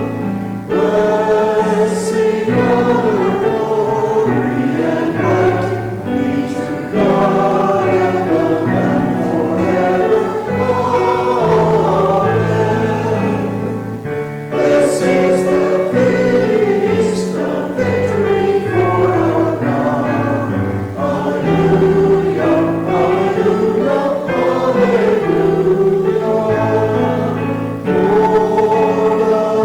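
A church congregation singing a hymn in phrases, accompanied by piano chords.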